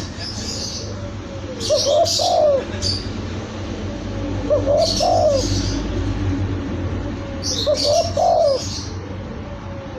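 Spotted dove (tekukur) cooing, the same short phrase repeated three times about three seconds apart, with high chirps heard alongside each phrase.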